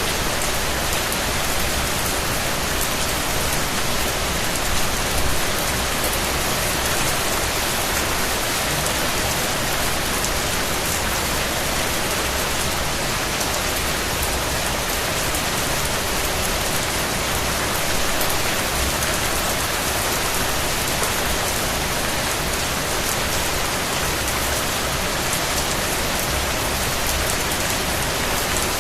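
Steady rain falling, a dense even hiss of many drops pattering on surfaces, with slight swells in intensity a few times.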